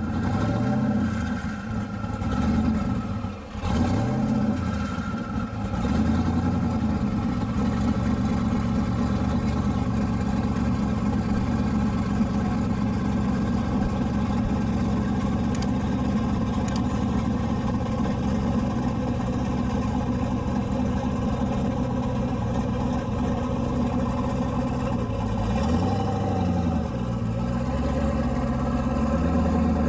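Car engine running loudly: blipped up and down several times in the first few seconds, held at a steady speed through the middle, then revved again a couple of times near the end.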